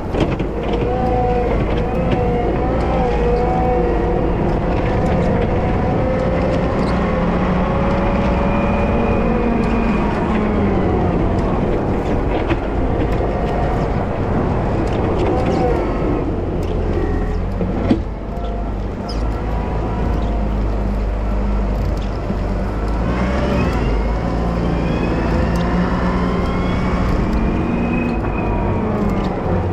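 Wheel loader's diesel engine running under load while snow plowing, its pitch rising and falling repeatedly as it revs.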